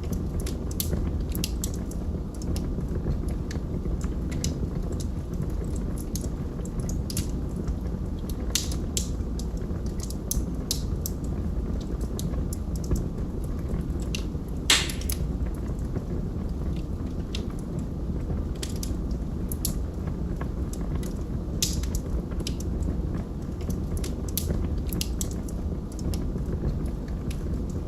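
Log fire burning with a steady low rumble and frequent irregular crackles and pops, one loud pop about halfway through.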